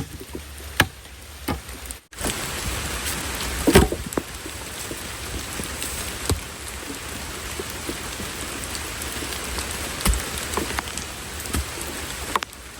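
Heavy rain falling steadily, with scattered sharper drop hits and one louder knock about four seconds in. The first two seconds are quieter with a few sharp taps, then the rain comes in loud after a brief break.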